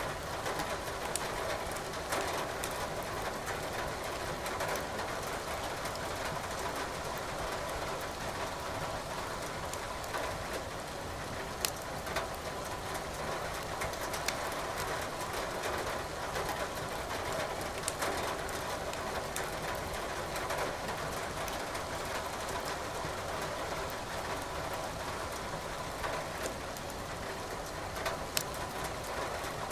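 Wood fire burning in a fireplace: steady hiss with quiet crackling and a few sharp pops, over the even patter of rain.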